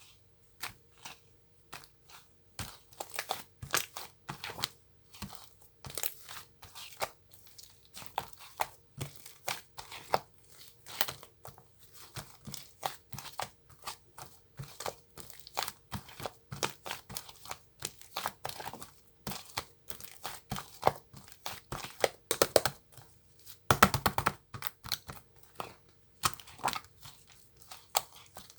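Packaging material being handled: rapid, irregular crinkling and tearing crackles, growing louder for a moment a little past the middle.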